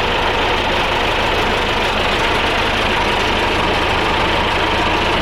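Tractor diesel engine idling steadily while the loader and rollers are being positioned.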